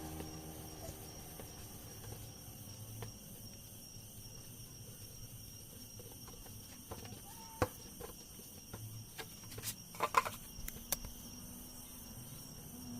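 Scattered light clicks and taps of handling, the loudest about two-thirds of the way in. A motor winds down at the start and starts up again near the end.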